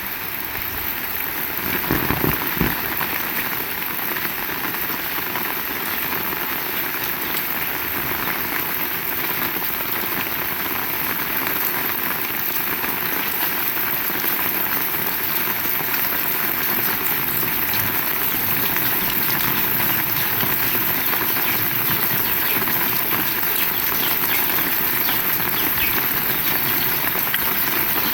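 Heavy rain falling, a steady dense hiss of drops striking surfaces, with a few low thumps about two seconds in.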